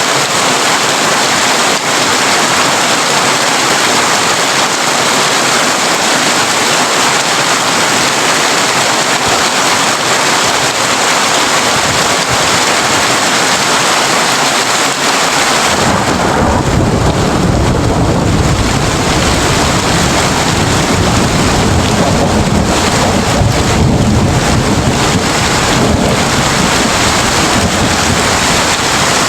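Heavy rain pattering steadily on a tin roof. About halfway through, a deep rumble of thunder comes in and rolls on under the rain.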